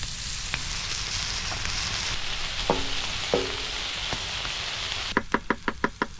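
Food sizzling in a pan over a cooking fire, a steady hiss. It cuts off suddenly about five seconds in, and a quick run of about eight sharp taps follows.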